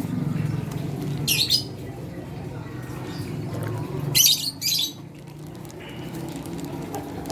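A flock of lovebirds calling: short, shrill squawking bursts, one about a second in and a longer double burst around four seconds in, over a low steady hum.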